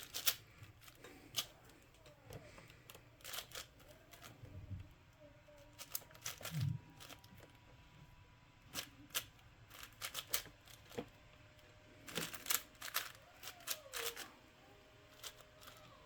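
Plastic twisty-puzzle cube being turned by hand: irregular clicks and clacks of its layers, coming in quick flurries with pauses between, most densely in a burst about twelve seconds in.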